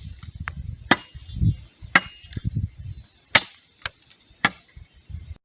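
Machete chopping a wooden stick to a point with diagonal blows: sharp chops about once a second, five heavy strikes and a couple of lighter ones.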